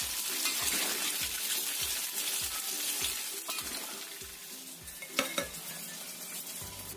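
Tofu frying in hot oil, sizzling, the sizzle slowly fading. Two sharp clinks, the second about five seconds in and the loudest moment. Background music with a steady beat about twice a second.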